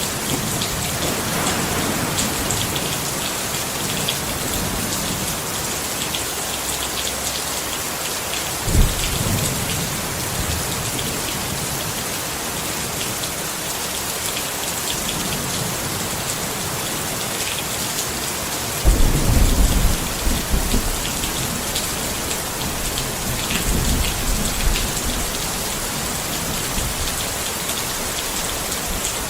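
Steady rain falling on a tent, with a sudden clap of thunder about nine seconds in and longer rumbles of thunder around twenty seconds in and again a few seconds later.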